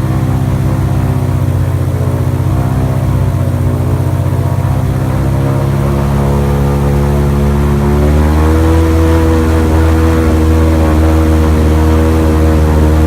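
Boat engine running steadily under way. About two-thirds through, it picks up speed and gets a little louder.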